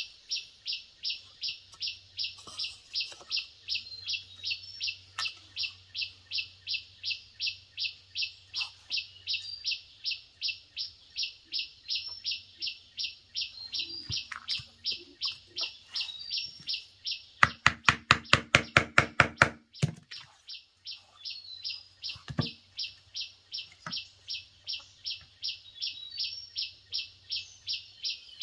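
A high chirp repeats very evenly, about two and a half times a second, from a wild creature. About two-thirds of the way in comes a quick run of about a dozen loud knocks, about six a second, and a single knock follows a few seconds later.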